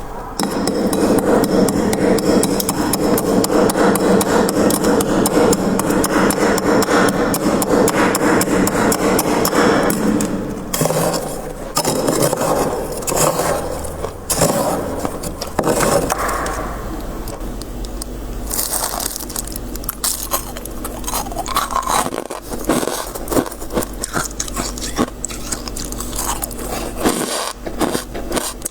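Frost being scraped off the inside of a freezer: a loud, dense run of scraping for about the first ten seconds, then shorter, broken scrapes and clicks.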